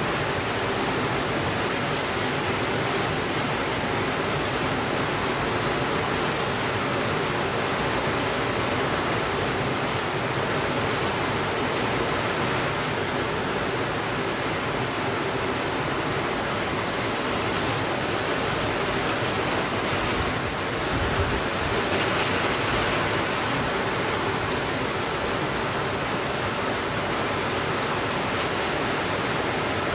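Steady rainfall, an even rushing hiss with no breaks, with a brief low rumble swelling up about two-thirds of the way through.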